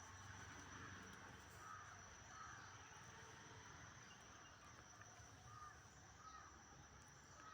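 Near silence: a few faint, short crow caws at a distance, over a steady thin high-pitched insect drone.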